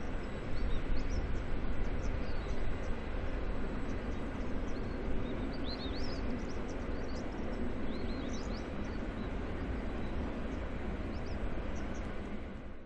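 Steady rumble of a long train of iron ore hopper wagons rolling away along the track, with small birds chirping intermittently over it.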